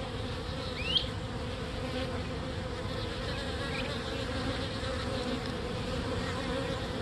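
Honeybee swarm colony buzzing in its nuc box: a steady, even hum.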